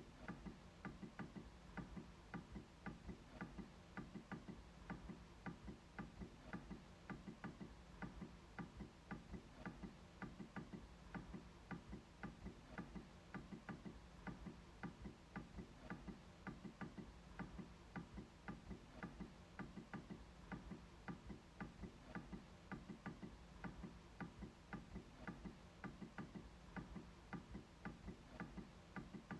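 MacBook trackpad being pressed and clicked over and over: faint, evenly repeated clicks, a few each second.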